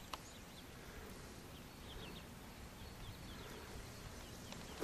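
Small birds chirping in short, quick downward notes, repeated in little groups over a steady outdoor hiss, with one sharp click just after the start.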